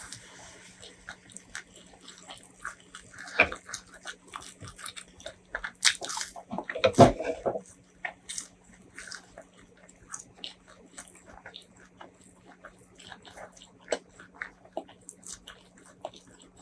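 Close-miked eating: chewing and biting, with many short crisp clicks and a louder burst of mouth noise about six to seven seconds in.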